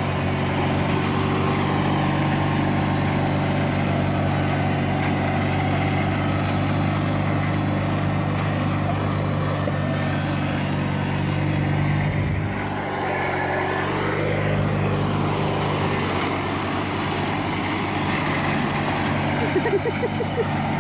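Riding lawn tractor engine running steadily, with a brief dip in level about twelve seconds in.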